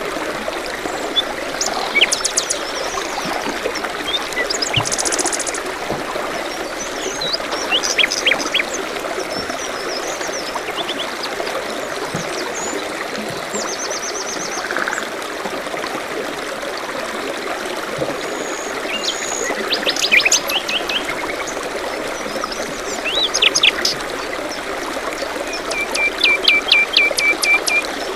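A stream trickling steadily, with songbirds chirping and trilling over it throughout, and a run of quick repeated notes near the end.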